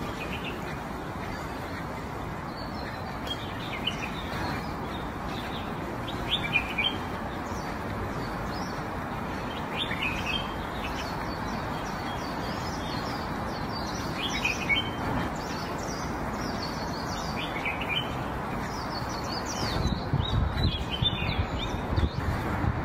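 Small birds chirping in short bursts again and again over steady background noise, with a few low knocks near the end.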